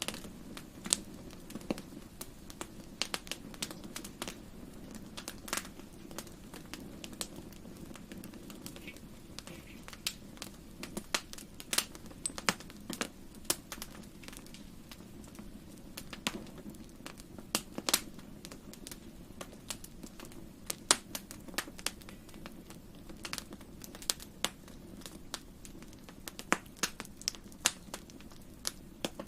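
Wood fire crackling in a fireplace: irregular sharp pops and snaps of varying loudness over a soft, steady low rumble of the flames.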